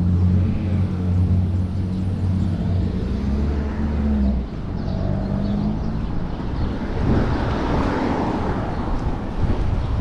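Motor vehicle engine running close by, a steady low hum that stops about four and a half seconds in, in city street traffic. A broad rushing noise swells from about seven seconds on.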